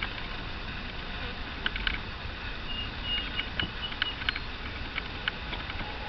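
Wooden hive frames and box parts clicking and scraping as a frame is set in between the others, over a low steady hum of bees. A few brief high chirps come through in the middle.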